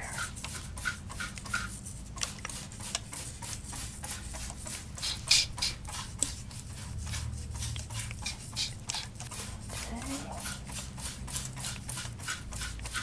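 Water spray bottle misting hair in quick repeated spritzes, about four a second, each a short sharp hiss.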